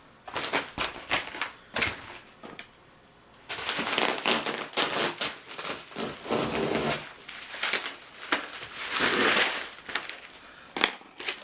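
Plastic packaging being handled and unwrapped: crinkling and rustling with many small clicks, pausing briefly about two seconds in, then crinkling on.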